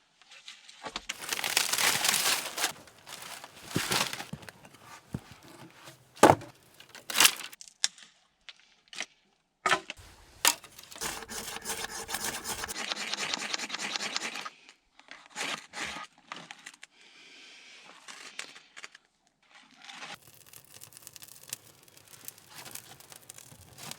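Hands working with wood and camp gear: irregular scraping and rustling, with several sharp knocks or cracks scattered through the middle.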